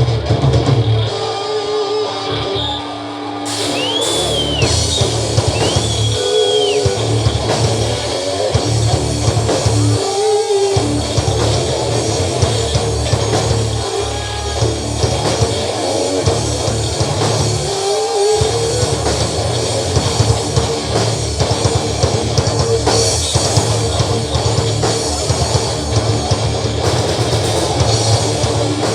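Live rock band playing an instrumental passage with electric guitars, bass and a drum kit, loud and steady throughout, with two high bending guitar notes about four and six seconds in.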